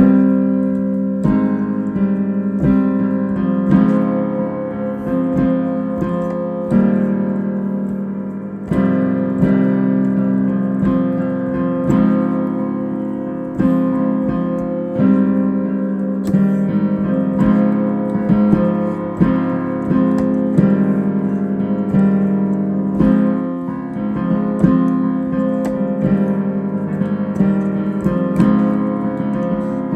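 Solo piano playing improvised music: sustained chords struck afresh every second or two, over a steady middle register, with a repeated higher note ringing through much of it.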